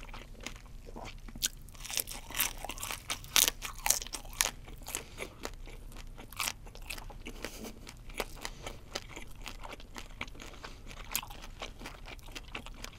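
Close-miked crunching and chewing of fried shell-on shrimp: crisp, crackly bites and chews, densest and loudest from about two to five seconds in, then steadier chewing.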